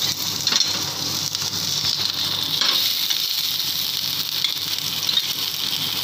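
Chopped garlic and ginger sizzling steadily in hot oil in a stainless steel pan, with a metal spoon stirring and now and then clicking against the pan.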